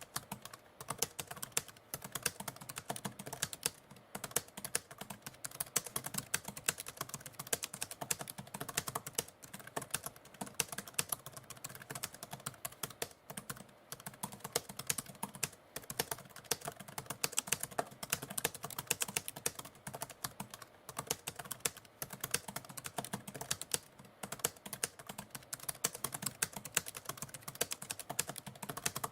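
Typewriter keys clacking in quick, continuous typing, with a few brief pauses.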